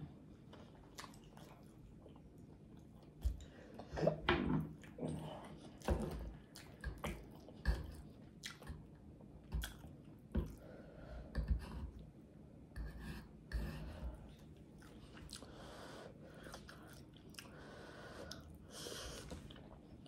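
Close-miked chewing with wet lip-smacking mouth sounds, coming in irregular bursts of short smacks a few seconds in and growing fainter in the last few seconds.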